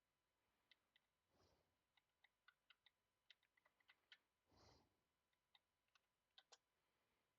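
Faint computer keyboard typing: irregular key clicks, a few in quick runs, with two short soft whooshes.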